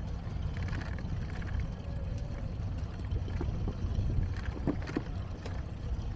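Wind buffeting the microphone over the rumble of a bicycle rolling along, with a couple of light knocks and rattles about three-quarters of the way through.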